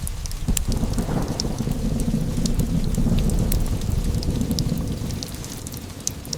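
A long low thunder rumble over steady rain, dying away near the end, with scattered sharp crackles of a log fire.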